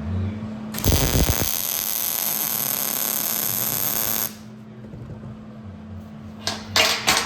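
Electric arc welding on steel: a weld run of about three and a half seconds starts about a second in with a crackle and cuts off abruptly, then a few short tack-weld bursts near the end. A steady hum runs underneath.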